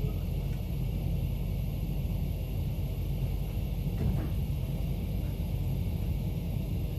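Steady low rumble of the MOB GoldenPass panoramic train running along the track, heard from inside the carriage, with a faint knock about four seconds in.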